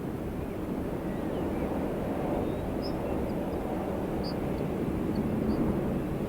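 Wind blowing steadily across a mountainside in a low, rushing noise that builds a little, with a few faint, short bird chirps in the second half.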